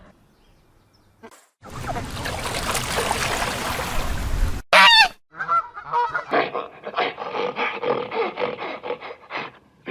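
Farm fowl calling: after a few seconds of rushing noise, one sudden loud cry, then a quick run of many short honking calls.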